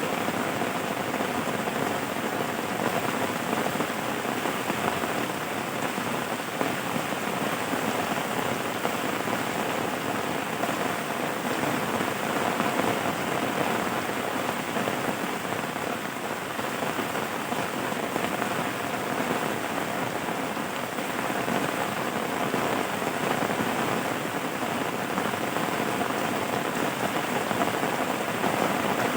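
Steady rain falling, an even, unbroken patter of many drops.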